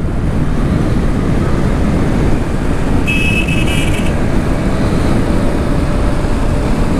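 Steady wind and road noise of a moving motorcycle, heard on its action camera, with a horn sounding once for about a second about three seconds in.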